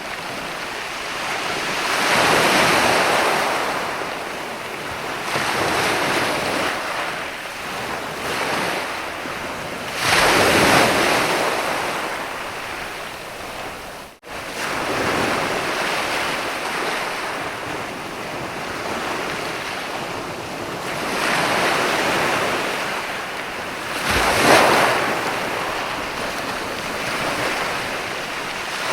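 Ocean waves breaking and washing up a sandy beach, the surf swelling and fading every few seconds. The sound cuts out for a split second about halfway through.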